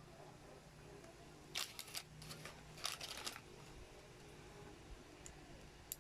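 Plastic toy building bricks being handled and clicked together: a cluster of sharp clicks and rattles between about one and a half and three and a half seconds in, over a faint steady hum.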